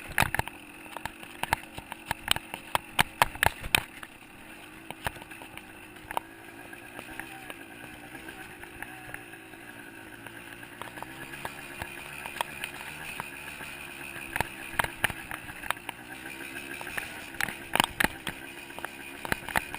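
A 125 cc two-stroke dirt bike engine running, its pitch wavering up and down with the throttle. Many sharp knocks and clatter sound over it, bunched in the first four seconds and again near the end.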